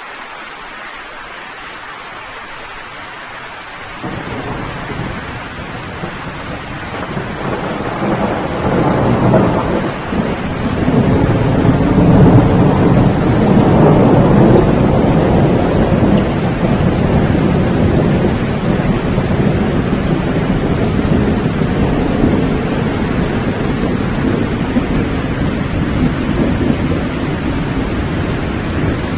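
Steady heavy rain with a long, low rolling thunderclap that builds up partway through, is loudest around the middle and slowly dies away under the rain.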